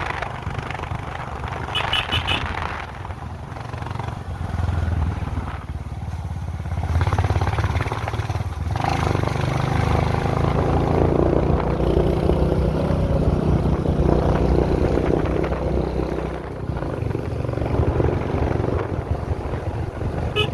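Motor vehicle engine running on the move, a steady low drone that gets louder and fuller about seven seconds in, with a short horn toot about two seconds in.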